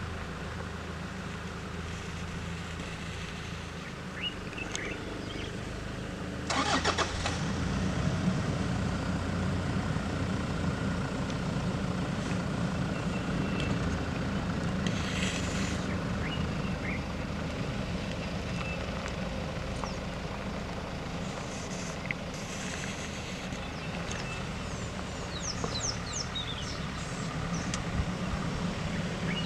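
Car engine running with a steady low drone; about six and a half seconds in it gets suddenly louder and stays so as the vehicle moves off alongside the walking lion.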